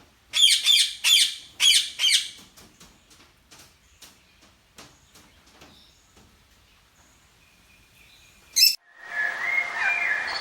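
Small caged bird chirping: five loud, sharp chirps in quick succession in the first two seconds, then softer scattered chirps and one sharp call. Near the end the sound switches to a hissier recording with whistled bird song.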